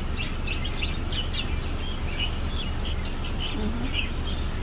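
Small birds chirping: many short, high notes, busiest in the first second and a half, over a steady low rumble.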